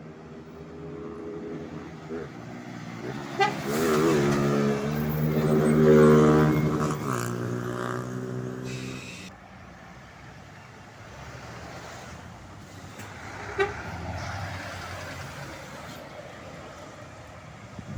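A truck drives past, its engine building to a peak about six seconds in and fading away by about nine seconds. A horn sounds as it approaches.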